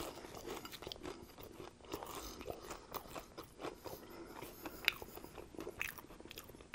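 Chewing a mouthful of BLT sandwich: a steady run of small crunches and mouth clicks, with one sharper crunch about five seconds in.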